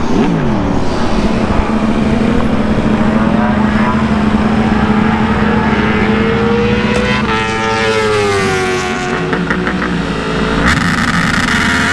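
BMW S1000RR inline-four superbike engine held at steady high revs for a practice start. From about seven seconds in, several racing engines sound together and fall in pitch.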